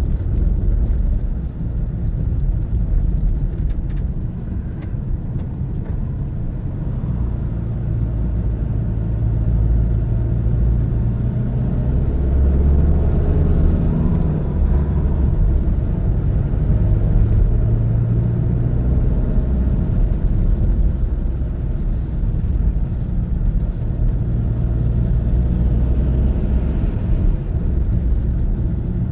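Car driving on a road: steady engine and road rumble, the engine note growing louder and easing off at times.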